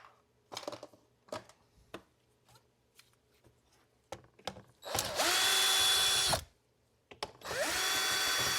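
Small electric screwdriver backing out screws from a robot vacuum's plastic housing. It runs in two bursts of about a second and a half each, the motor spinning up and winding down each time. Before them come a few light clicks and knocks of plastic parts being handled.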